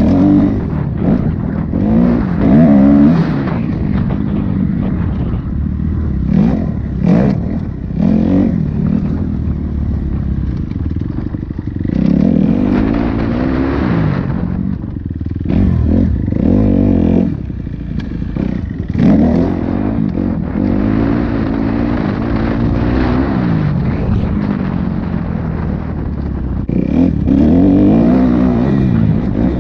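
Dirt bike engine revving hard and easing off again and again as it is ridden round a dirt track, its pitch climbing and falling with the throttle, with a few clattering knocks along the way.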